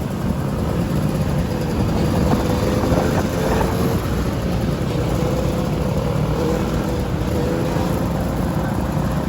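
Dirt bike engine running at a steady speed, its note wavering slightly, over a heavy low rumble of wind on the microphone.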